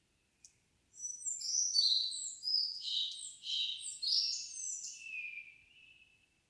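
A songbird singing one long phrase of fast, varied high notes that lasts about five seconds and ends on a lower, falling note. A single sharp call note comes just before it.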